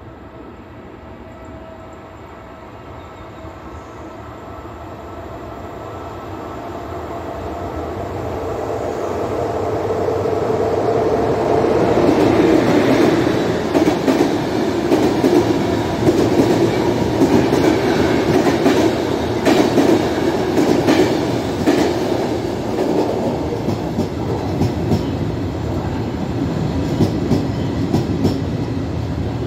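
Regional train hauled by an E.464 electric locomotive approaching and passing close by. Its rumble grows steadily and becomes loud about twelve seconds in. Repeated clickety-clack follows as the coaches roll past.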